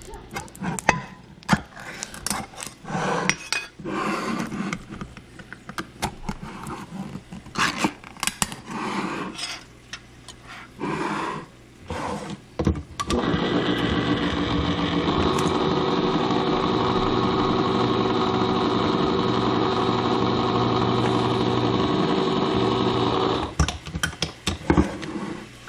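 Kitchen cleanup: dishes and utensils clattering and knocking. About halfway through, a steady, loud rushing noise with a low hum starts, like a running kitchen appliance or tap, and stops suddenly near the end.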